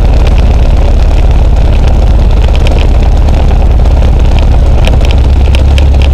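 Luscombe's piston aircraft engine and propeller running at a steady low speed after start-up.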